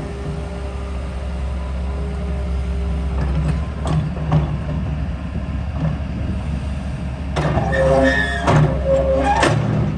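Komatsu PC210LC hydraulic excavator's diesel engine running steadily, with metal clanks, and a couple of seconds of high squealing and clanking about seven seconds in.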